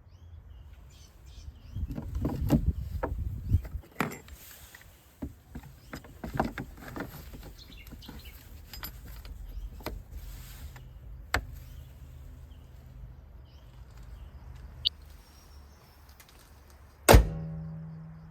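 Hands working on a car's engine air filter housing: rustling, clicks and knocks of plastic parts being handled and fitted. Near the end comes one loud slam, much the loudest sound, followed by a fading low hum.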